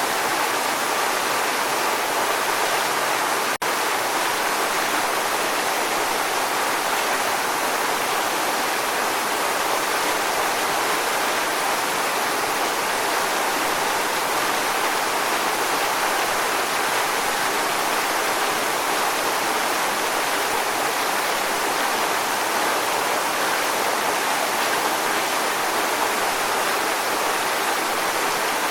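Waterfall rushing: a steady, even roar of falling water with a momentary dropout about three and a half seconds in.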